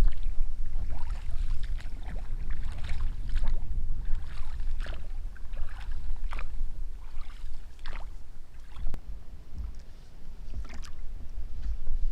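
Oars dipping and splashing in the water as an inflatable PVC boat is rowed, with short irregular splashes and drips over a steady low rumble.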